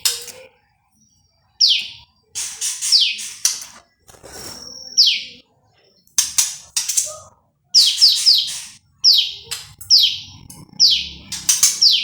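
Prenjak lumut, a small prinia, calling loudly in a rapid series of sharp chirps and quick falling whistled notes, grouped in runs of two to four with short pauses between.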